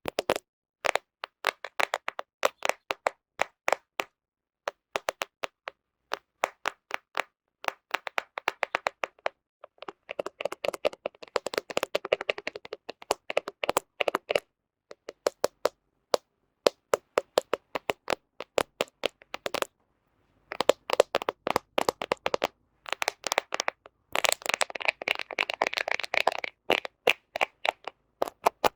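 Fingernails tapping on a camera close to the microphone: crisp clicks, sometimes spaced out, sometimes in fast dense flurries, with brief pauses between runs.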